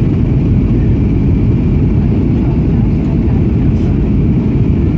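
Steady, loud low roar of cabin noise inside a Boeing 737-800 in flight, made by its CFM56-7B jet engines and the airflow over the fuselage.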